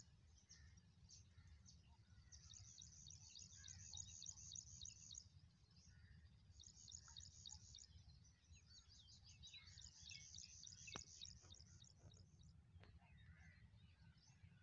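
Faint high-pitched twittering of small birds, coming in bursts of a few seconds, over a low steady rumble.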